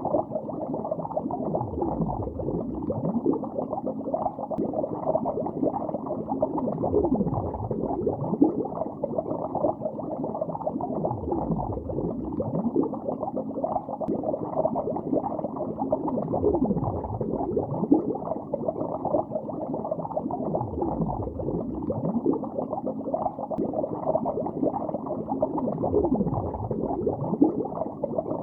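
Bubbles rising underwater in a lake, a continuous dense bubbling that sounds dull and muffled, with many small bubbles gurgling in quick succession.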